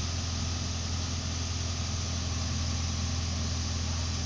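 Heavy diesel engine running at a steady speed, a constant low hum with no revving.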